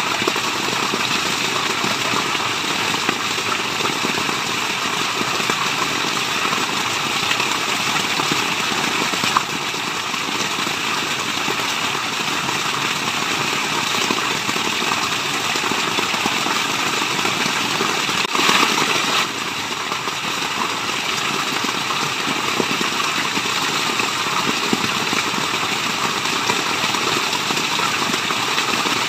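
Waterfall: a steady rush of falling water, with a brief swell about eighteen seconds in.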